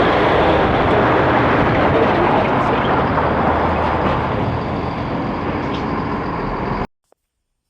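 Road traffic: vehicles running with a steady rumble and road noise, which cuts off abruptly near the end.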